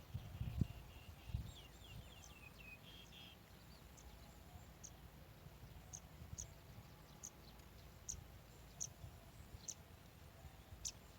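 Faint small-bird calls: a quick run of short chirps in the first few seconds, then thin, very high single chirps scattered through the rest, the strongest near the end. A few low bumps come near the start.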